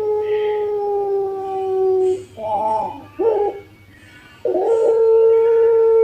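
Barbary dove (puter) cooing in the long drawn-out pelung style: a long held coo sinking slowly in pitch, breaking about two seconds in into a couple of short coos, then after a short pause another long held coo.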